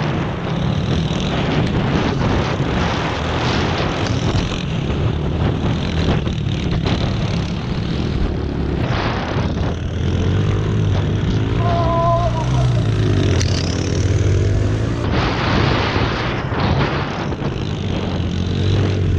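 Yamaha TT-R110 pit bike's small single-cylinder four-stroke engine running at a steady, fairly low speed, its pitch drifting a little up and down.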